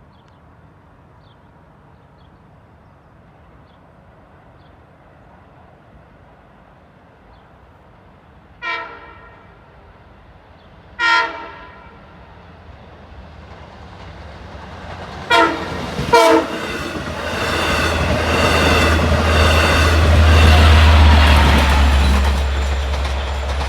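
LIRR DE30AC diesel-electric locomotive approaching and passing, sounding its horn: two blasts a couple of seconds apart, then two short blasts close together, then a longer horn sound. The engine's low drone and the train's running noise swell loud near the end.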